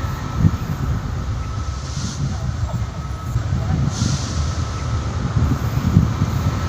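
Train rumbling along the rails, with two short hissing bursts about two and four seconds in.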